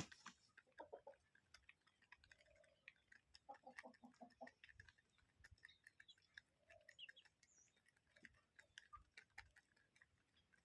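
Faint, scattered clicking and ticking with a few soft chicken clucks, about a second in and again near the middle, and brief high chirps.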